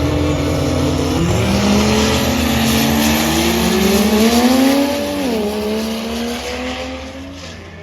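Diesel truck accelerating hard down a drag strip, its engine climbing in pitch, then dropping sharply about five seconds in as it shifts gear, and fading as it pulls away.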